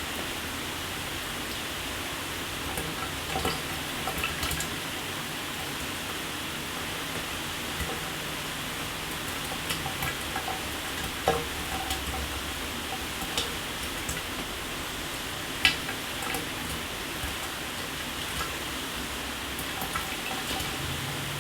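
Shower running: a steady hiss of water spraying and falling, with a few sharper splats and drips now and then, the loudest about eleven and fifteen seconds in.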